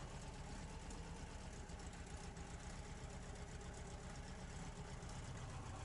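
ZAZ 968 Zaporozhets' air-cooled V4 engine idling faintly and steadily.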